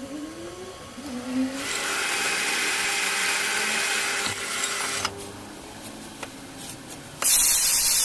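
A power tool working metal in a workshop, running for about three seconds and then stopping. A few clicks follow, and near the end a sudden, much louder hiss starts.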